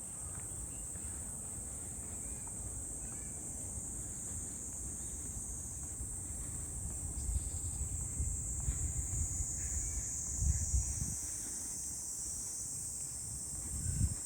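A steady, high-pitched summer insect chorus drones without a break, over a low rumble, with a few soft bumps around the middle and near the end.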